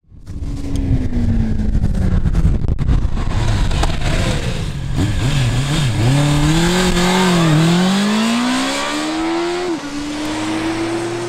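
Honda CB650R's inline-four engine being ridden: the revs sag and swing up and down, then climb steadily, drop sharply at a gear change near the end, and start climbing again.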